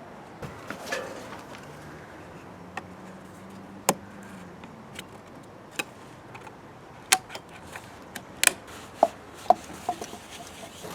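Irregular sharp knocks and taps of hand tools and parts during car repair work, about a dozen of them, coming more often and louder in the second half.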